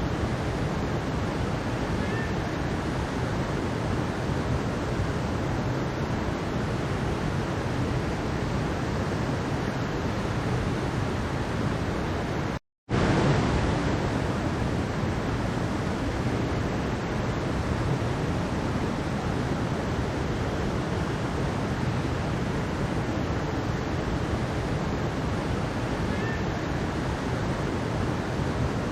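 Mountain stream water rushing steadily, an even wash of water noise. It cuts out completely for a split second about halfway through, then resumes unchanged.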